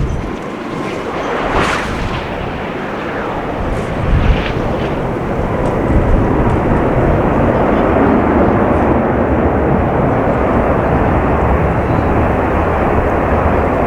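Wide-body jet airliner's engines during a landing: a steady, loud roar that grows louder about six seconds in and then holds.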